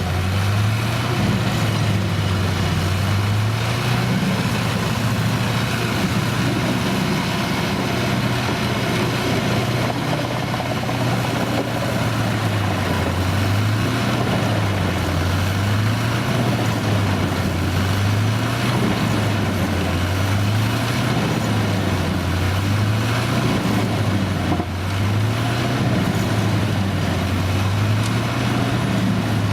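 Engine of a large farm machine running steadily, with a low hum that wavers up and down about every two seconds.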